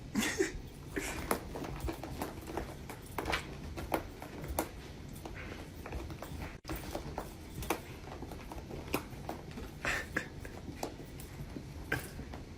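Scattered light taps and scuffs of a cat's paws scrambling on a floor.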